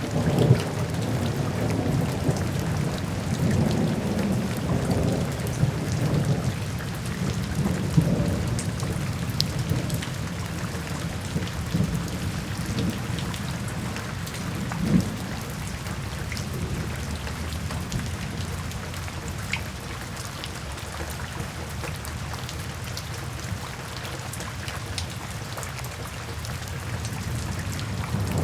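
Steady heavy rain falling on a surface, with scattered drop impacts and rolling thunder rumbling through the first half; the rumble eases about halfway through and builds again at the very end.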